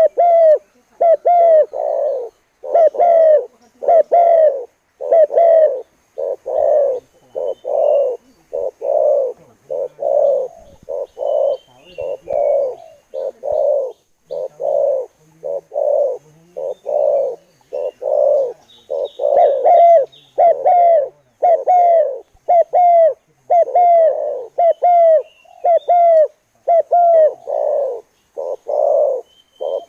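Spotted dove (tekukur) cooing over and over, short low coos coming about twice a second without a break. Faint chirps of smaller birds sound now and then.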